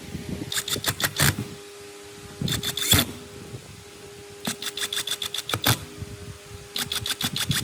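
Restored chisel mortiser running with a steady motor hum, broken by bursts of rapid clattering strokes about every two seconds as the chisel works.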